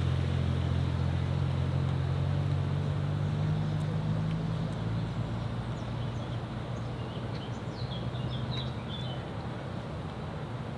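A car's engine running at low, steady revs, its deep note fading away as the car drives off.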